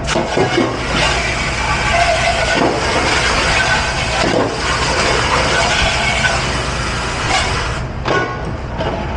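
Steady, hard spray of water in a commercial dish pit, starting about a second in and cutting off near the end, with dishes clattering around it.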